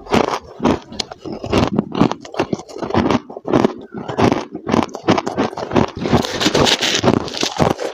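Freezer frost crunching as it is bitten and chewed, in quick irregular crisp crunches.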